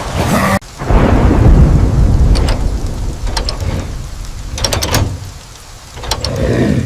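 A sudden, loud low rumble starts about a second in and fades over the next few seconds, with scattered sharp cracks.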